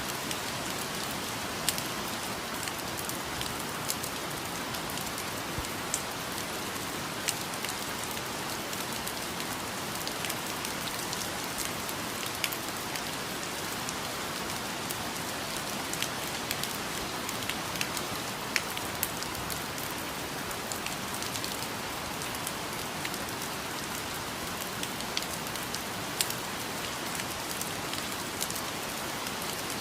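Steady rain falling on foliage, with a constant hiss and many separate drops pattering close by at irregular moments.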